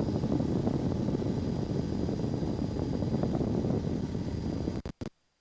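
Cessna 172S's four-cylinder Lycoming engine and propeller running steadily at climb power, a dense low drone with a thin high steady tone above it. It cuts off abruptly to silence near the end.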